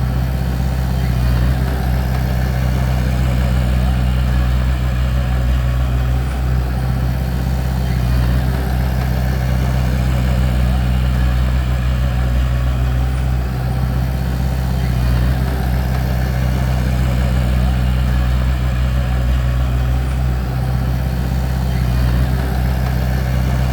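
Bulldozer diesel engine running steadily under power, a deep, even drone with no breaks.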